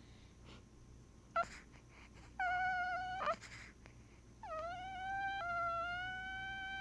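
A pet whimpering in its sleep: a short yelp about a second and a half in, then two long, high, steady whines, the second slowly rising in pitch.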